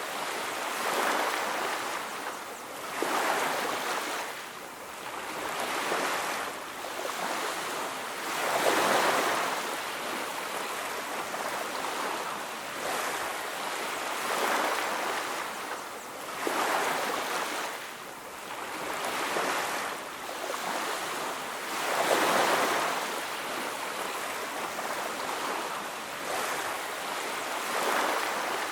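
Ocean waves breaking and washing up on a beach, a steady hiss of surf that swells and fades every few seconds.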